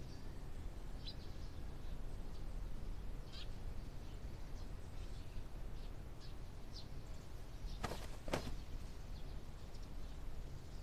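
Faint birds chirping now and then over a low steady background hum, with two short sharp clicks about eight seconds in.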